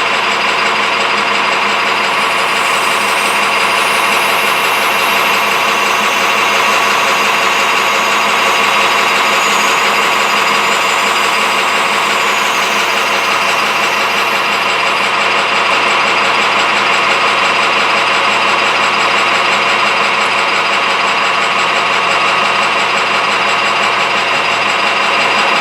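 Metal lathe running steadily, its motor and gearing giving a constant hum and whine, while a deep hole is drilled into a Delrin plug.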